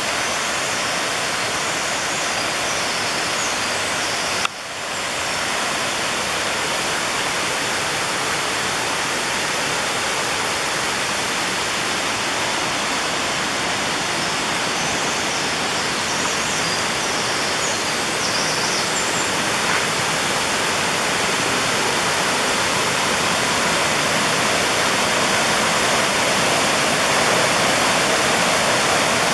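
Rushing water of the Oirase mountain stream, a steady, even roar of flowing water. About four and a half seconds in, the sound drops out briefly and then returns.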